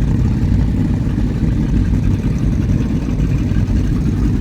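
High-performance powerboat engines idling with a low, steady rumble.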